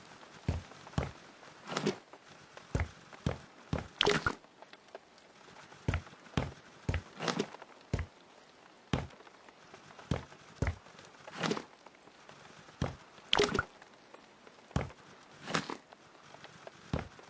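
Irregular knocks and thuds, at times in runs of about two a second, with quiet between them.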